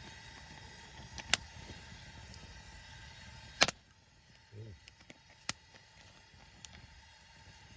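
A few sharp, isolated clicks over a faint steady hiss, the hiss dropping away about halfway through.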